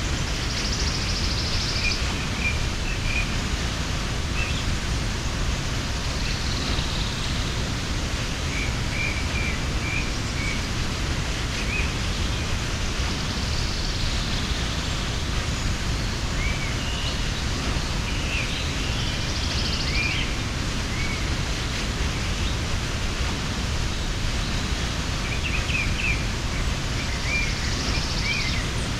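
Steady rushing of a mountain waterfall, with small birds chirping briefly here and there over it.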